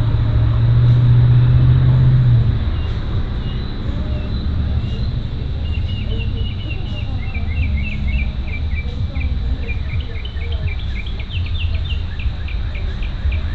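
A bird calling in rapid series of short chirps from about halfway in, over a steady high drone of crickets and a low rumble that is loudest as a hum in the first two seconds.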